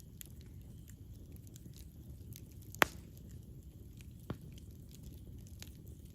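Campfire burning with a low steady rumble and scattered small crackles, with one sharp, loud pop about three seconds in and a lighter pop a second and a half later.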